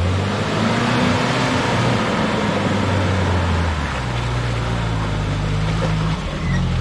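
Jeep engine running at low trail speed, its pitch rising slightly about a second in, over a steady hiss of tyres and the drivetrain.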